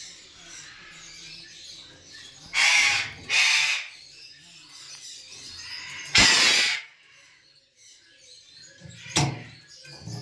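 Parrot calling with loud harsh squawks: two in quick succession about three seconds in, a longer one around six seconds, and a short one near the end.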